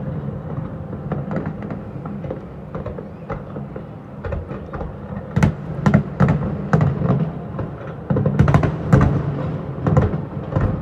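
Fireworks bursting: a run of sharp bangs and crackles over a low rumble, thickest about halfway through and again near the end.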